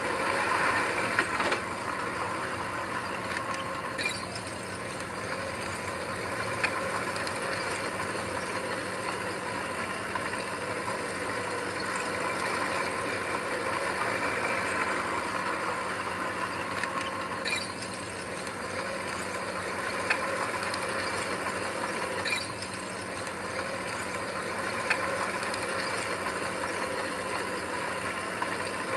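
Heavy earthmoving machine's engine running steadily, with a few sharp metallic clanks now and then.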